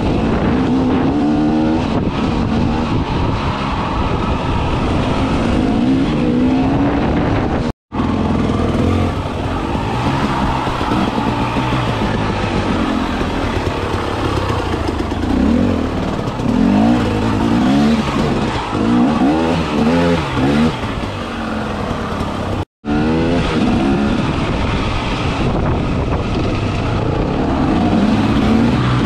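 Enduro motorcycle engine revving up and down over and over as it is ridden, its pitch rising and falling with each throttle change. The sound cuts out completely for an instant twice.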